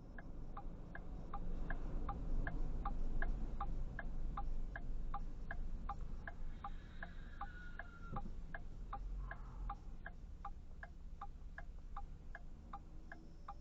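A car's turn-signal or hazard-light flasher clicking steadily, about two and a half to three ticks a second, over the low rumble of the car's interior.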